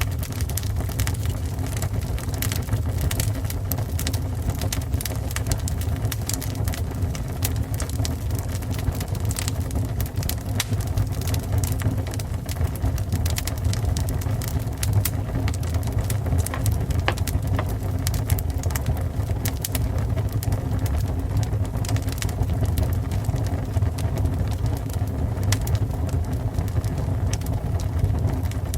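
Fire burning with a steady low rumble and frequent sharp crackles and pops throughout.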